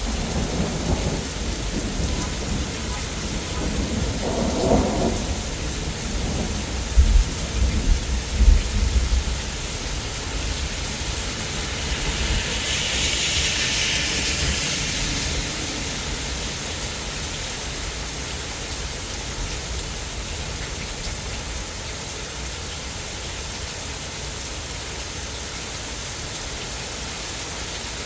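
Thunder rumbling over steady heavy rain, with the rumble loudest about seven to nine seconds in and then dying away, leaving rain falling on its own.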